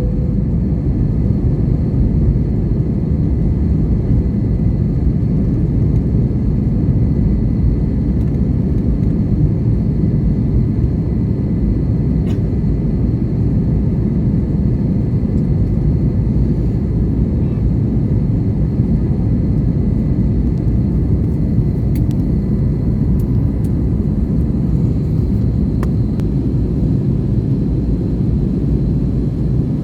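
Steady engine and airflow noise inside the cabin of an Airbus A321neo with CFM LEAP-1A engines, heard from an economy window seat, with a few faint ticks.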